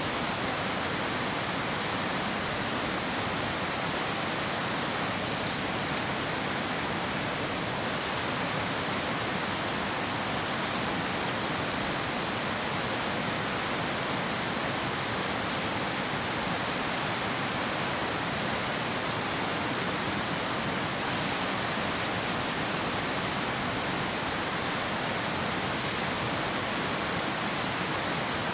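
Steady rushing water, an even hiss with no swells or breaks, with a few faint ticks later on.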